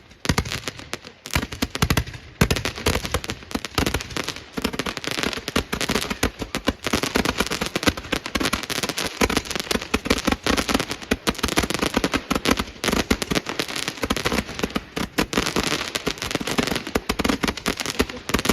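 Fireworks and firecrackers going off in a continuous rapid run of bangs and crackles.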